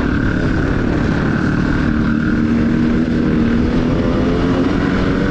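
Enduro motorcycle engine running at a steady speed, its pitch holding nearly level.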